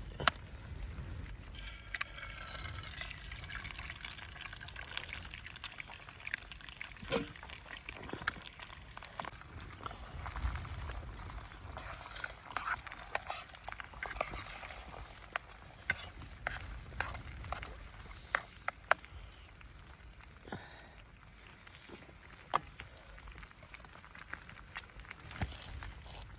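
Liquid pouring and trickling, with many sharp clicks and knocks of handling scattered throughout.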